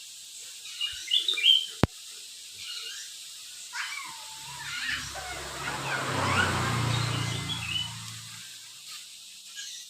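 Lory (nuri parrot) giving short high chirps and squawks, loudest about a second in, with a sharp click just before two seconds. A low rumble swells in the middle and fades out by about eight seconds.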